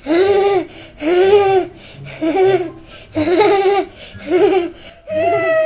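A child's high-pitched voice laughing in five drawn-out, sing-song bursts about a second apart. A steady musical tone comes in near the end.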